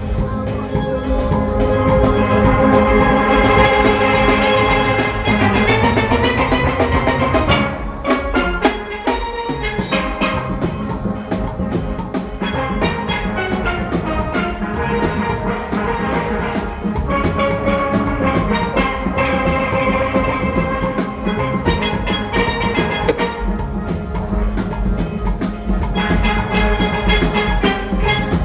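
Steel orchestra playing: a full band of steel pans ringing out a tune over drums keeping a steady beat. The pans drop back briefly about eight seconds in, leaving mostly the drums, then come back in.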